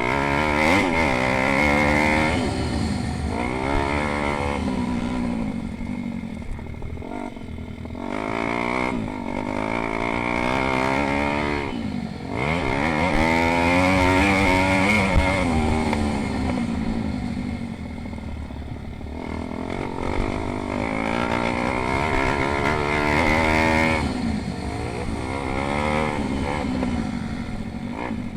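Several pit bike engines racing, revving up and dropping back again and again as the bikes accelerate and slow, with overlapping engine notes.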